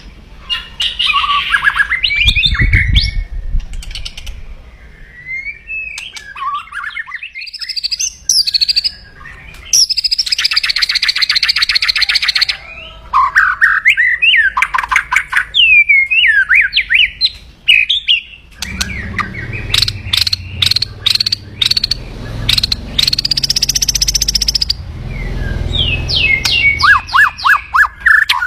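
White-rumped shama (murai batu) giving loud, aggressive 'kretekan' calls: rapid crackling rattles and strings of sharp clicks mixed with short whistled, gliding phrases. These calls are the challenge it makes to a rival. A low rumble runs under the calls for several seconds past the middle.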